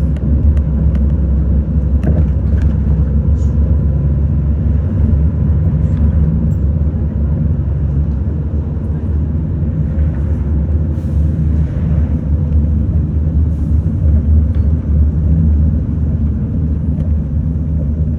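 Steady low engine rumble of a city bus heard from inside the cabin, with occasional faint clicks and rattles.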